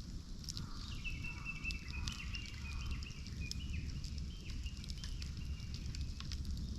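Campfire crackling with scattered sharp pops over a low steady rumble. About a second in, a high wavering whistle runs for two to three seconds.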